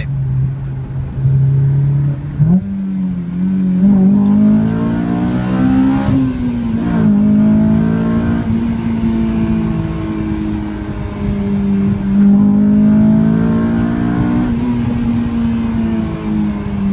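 2005 Honda S2000's four-cylinder engine running through a Milltek 70 mm dual cat-back exhaust with a Burke test pipe. It holds steady revs, then rises about two seconds in and wavers with a couple of short blips. It holds a higher steady note, then drops back near the end.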